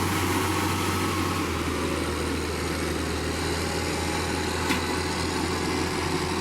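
Diesel engine of a heavy road-building machine running steadily, its low hum dropping slightly in pitch about a second and a half in. A single short click a little past the middle.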